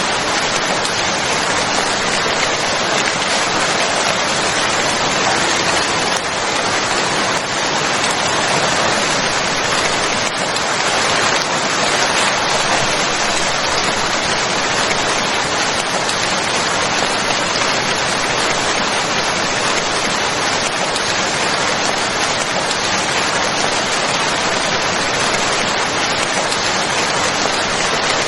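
Steady rain falling, a dense even hiss of many drops without let-up.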